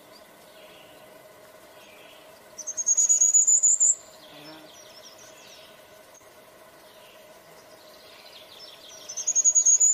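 Blackburnian warbler singing: a thin, very high-pitched song of rapid notes rising in pitch. It comes once about a third of the way in and starts again near the end.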